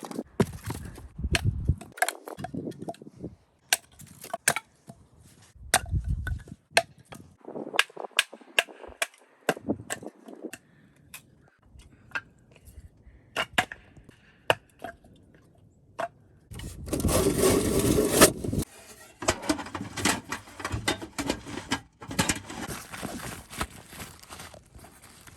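Dry wood cracking and knocking in irregular sharp snaps, as when sticks are broken up for firewood, with a louder two-second stretch of rough scraping and rustling about seventeen seconds in.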